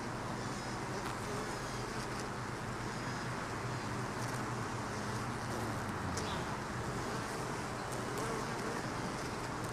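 Honey bees buzzing steadily around an opened hive: the continuous hum of many bees.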